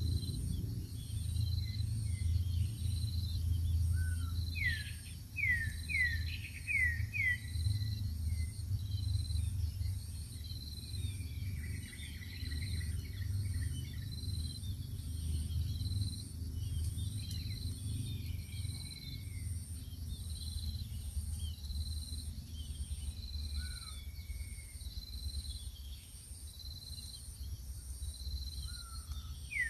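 Outdoor field ambience: an insect chirping in a steady pulse about once a second, and small birds calling now and then, including a quick run of five falling whistles a few seconds in, over a continuous low rumble.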